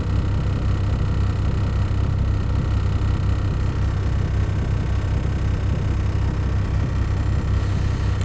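Steady low rumble of a vehicle's cabin with the engine running while it sits in or creeps through traffic.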